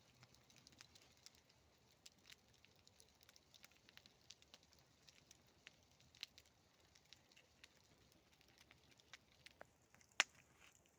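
Campfire crackling: faint, irregular snaps and pops of burning wood, with one louder pop near the end.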